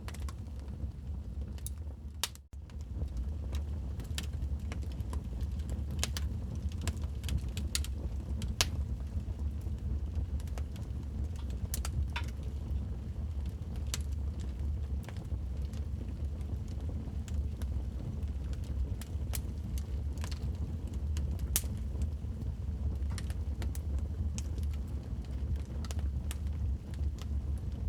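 Wood fire crackling in a fireplace: scattered sharp pops and snaps over a steady low rumble of the burning fire, with a brief drop in level about two and a half seconds in.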